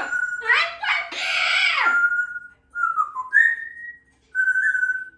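Congo African grey parrot whistling: a run of clear notes, most held level and one rising, after a couple of sweeping calls in the first two seconds.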